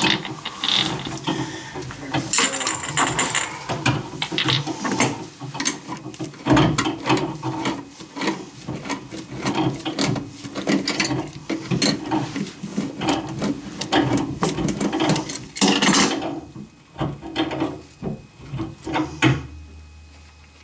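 Hand-tool work on a toilet being pulled from its floor flange: rapid ratchet-like clicking with scattered knocks and scrapes, dying away near the end.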